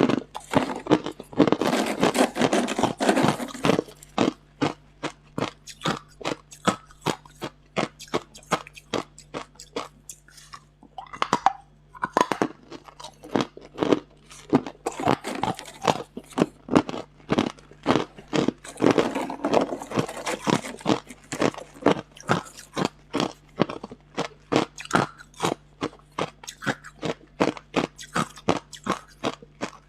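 Hard ice being bitten and chewed close to the microphone: a rapid run of sharp crunches, with denser flurries of grinding crunches near the start and about two-thirds of the way through, and a short lull before the halfway point.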